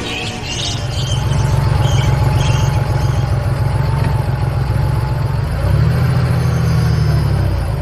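A car engine running steadily, with a faint wavering whine above it.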